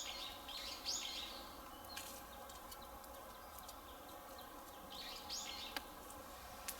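Wood bonfire crackling, with scattered sharp pops. A bird calls in short high bursts near the start and again about five seconds in.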